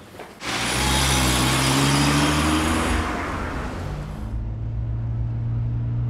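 A car engine running steadily, starting suddenly about half a second in. For the first couple of seconds a loud rushing noise lies over it, then fades away.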